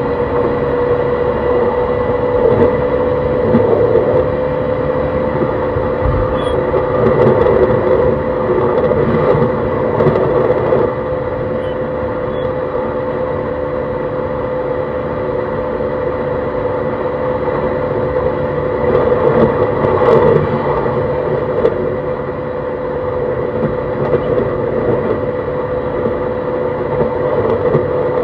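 E131 series 600 electric train running at steady speed, heard from inside the car: wheel-on-rail rumble under the steady whine of its Hitachi hybrid SiC VVVF inverter and traction motors, whose pitch stays level. The rumble swells a few seconds in and again about two-thirds of the way through.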